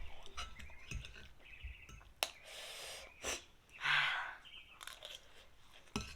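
A person chewing and eating fish paste with noodles: small wet mouth clicks and crunches, with two breathy bursts about two and a half and four seconds in.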